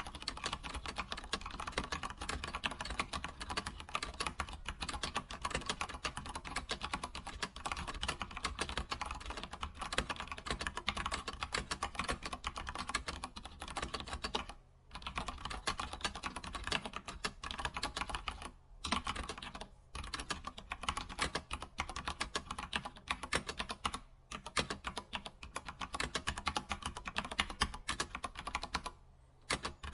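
Computer keyboard typing: a fast, continuous run of keystrokes, broken by short pauses about four times.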